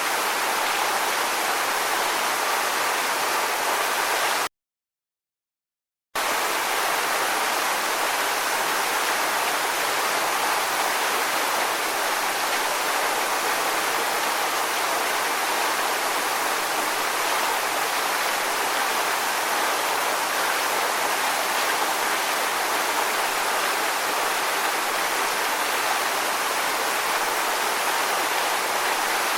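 Steady rushing water, even and unbroken, with no rise and fall of waves. It cuts out to total silence for under two seconds about four and a half seconds in, then resumes.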